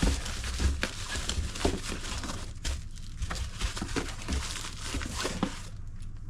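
Packing material being handled: irregular crinkling and rustling with small knocks, which stops a little before the end.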